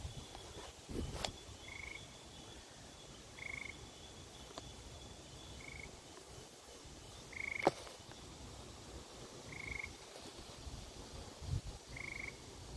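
Frogs calling: short pulsed trills, one about every two seconds, over a faint steady high whine. A single sharp click about seven and a half seconds in is the loudest sound.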